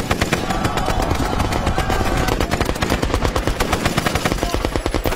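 Maxim machine gun firing one long, unbroken burst, a rapid, even stream of shots.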